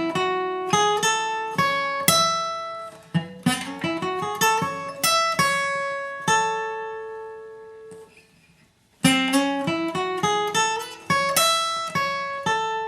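Acoustic guitar picking a single-note bluegrass lead riff, with notes sliding up the neck. The phrase rings out and dies away about eight seconds in, then starts again a second later.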